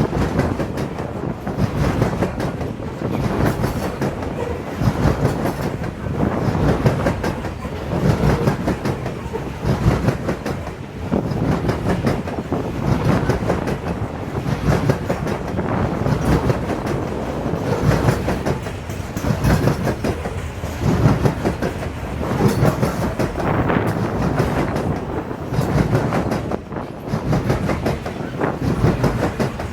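Loaded coal hopper cars of a freight train rolling past, their wheels clacking steadily over the rail joints.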